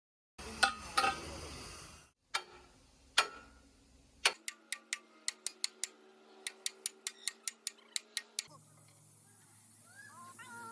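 A few loud knocks, then a run of sharp, ringing taps at about three or four a second, typical of hand hammering on steel in a metal workshop. Near the end a low steady hum takes over.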